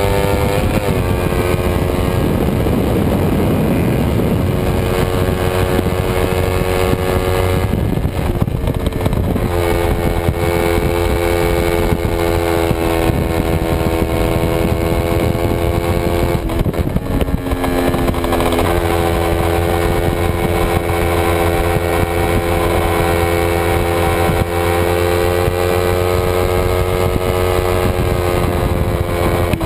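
Kawasaki Ninja 250 parallel-twin racing engine heard onboard at high revs, its pitch holding or slowly rising through each gear and changing abruptly at gear shifts about a second in, near the middle, and again a little later, with steady wind rush on the microphone.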